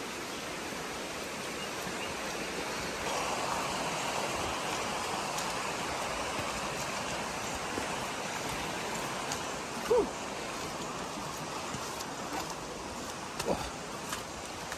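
Steady rush of running water from a stream or waterfall, growing louder a few seconds in. A short, loud sound falling in pitch breaks in about ten seconds in, and a smaller one near the end.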